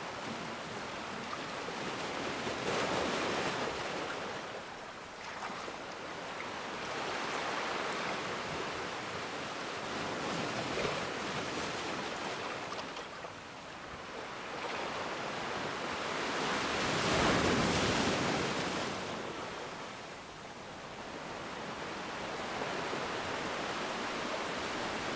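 Ocean surf: waves breaking and washing in as a rushing hiss that swells and recedes every few seconds. The largest wave surges about two-thirds of the way through.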